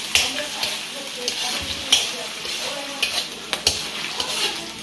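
Chicken liver sizzling in hot oil in a carbon-steel wok as the pieces are pushed in from a foam tray with a metal spatula, which scrapes and clicks against the wok and tray about six times over the steady sizzle.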